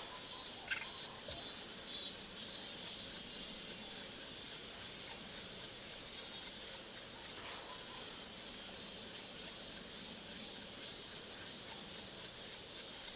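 Steady high-pitched insect chirring, with a few short sharp clicks or taps, the clearest about a second in and again at two seconds.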